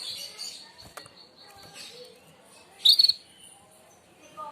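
Merlok canary singing: scattered high chirps and one short, loud, rapid trill burst, the sharp 'tembakan' shot phrase, about three seconds in. A steady high tone runs underneath.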